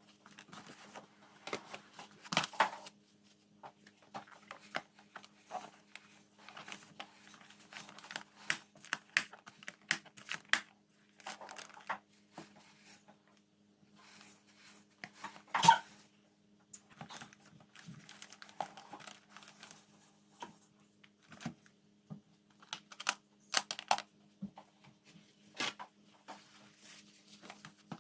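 Lunchbox packing: plastic containers, lids and food wrappers handled, with scattered clicks, knocks and crinkling, and one louder knock a little past halfway. A faint steady hum sits underneath.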